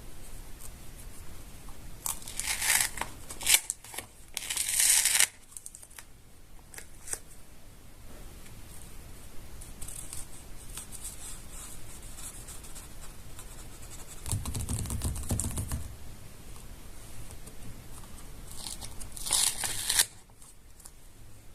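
Paper being torn and crinkled in short bursts, twice in the first few seconds and again near the end. About two-thirds of the way through comes a low dull rumble.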